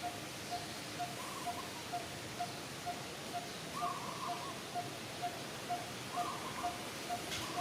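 Birds calling: a short single-note pip repeated steadily about twice a second, with a slightly higher, longer call every two to three seconds, over a steady hiss of outdoor ambience. A single sharp click near the end.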